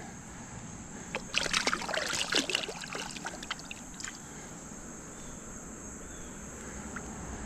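Water splashing and sloshing for about two seconds, starting about a second in, as a hand-held rainbow trout is handled in the creek shallows. A steady high-pitched insect drone runs underneath.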